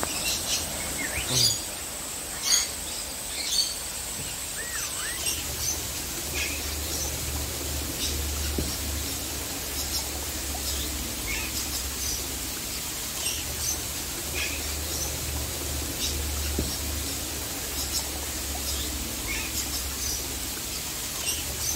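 Aviary birds chirping, with a few louder calls in the first few seconds, then short high chirps repeating about once a second.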